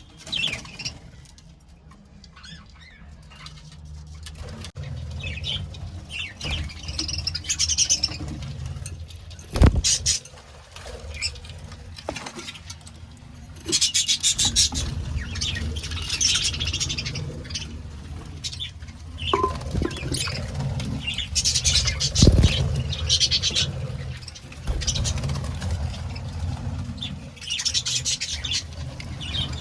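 A colony of budgerigars chirping and chattering, over a low rumble. Two sharp knocks come through, about ten seconds in and again about twenty-two seconds in.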